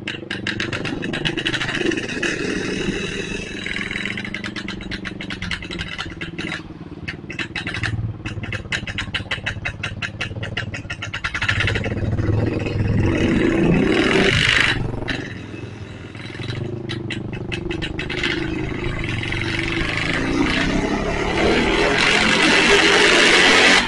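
An engine running with a rapid pulsing beat, its speed rising and falling, loudest near the end.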